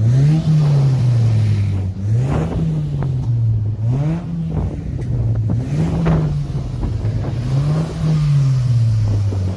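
Car engine revved repeatedly, about five times: each rev climbs quickly and then falls back more slowly, at a fairly even pace of roughly one every two seconds.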